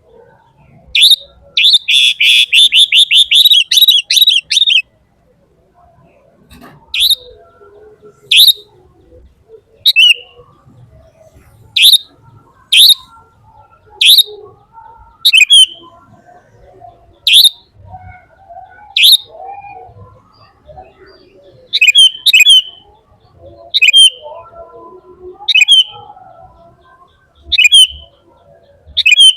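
A bird chirping loudly. About a second in comes a fast run of sharp high chirps lasting a few seconds, then single short chirps about every second and a half.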